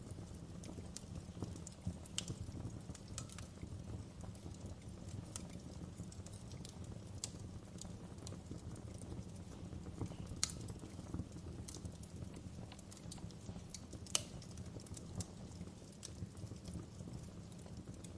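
Wood fire burning in a fireplace: a steady low rumble of flames with irregular crackles and pops, a few sharper snaps about two, ten and fourteen seconds in.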